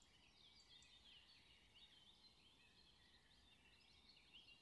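Near silence, with faint bird chirps throughout.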